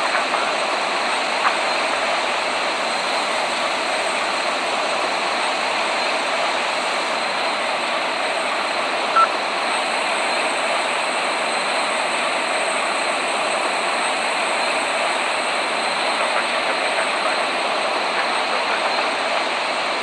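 Steady, even rushing noise of a Boeing 787 airliner's jet engines and airflow. A small click comes about a second and a half in, and a short, sharp blip about nine seconds in.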